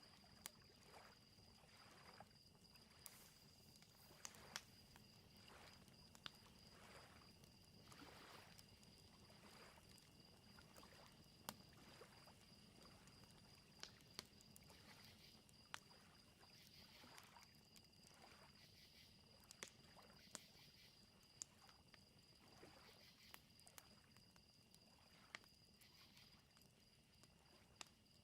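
Faint lakeside ambience. Crickets chirp in a steady high trill, a fire snaps with scattered sharp pops, and small waves lap softly on the shore every second or two.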